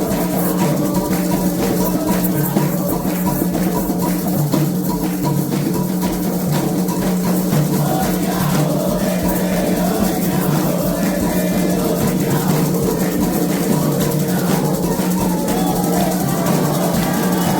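Candomblé ritual music: hand drums played in a steady driving rhythm with a rattle shaking along, and voices singing faintly within it.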